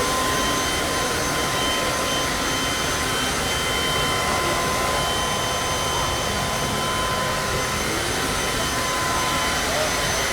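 Steady mechanical rushing noise with constant high-pitched whine tones, unchanging throughout and cut off abruptly at the end.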